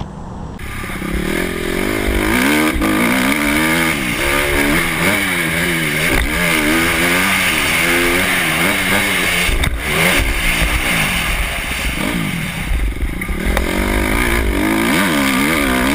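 Dirt bike engine revving up and down over and over as the throttle is worked, with low wind rumble on the microphone. The engine starts abruptly about half a second in and eases off briefly around two-thirds of the way through.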